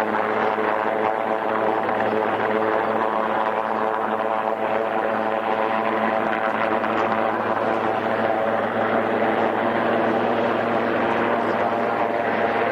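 Twin-engine search-and-rescue helicopter hovering, its rotors and engines running steadily.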